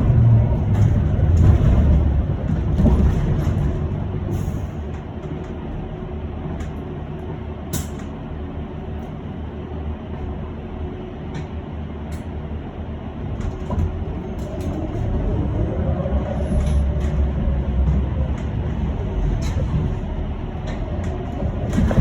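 Electric bus heard from inside the cabin while driving: a steady low rumble of the road and running gear, with a whine that glides up and down in pitch in the second half as the bus speeds up and slows.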